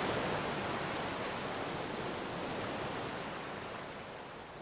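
Steady rushing noise of sea surf and breeze, slowly fading away.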